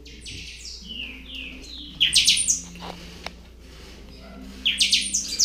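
A bird singing: a few falling whistled notes, then two loud bursts of rapid chirps, about two seconds in and again near the end.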